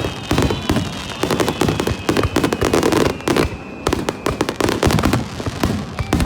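Fireworks going off in rapid succession: a dense stream of sharp bangs and crackling pops. Faint high whistling tones glide slowly downward in pitch behind them.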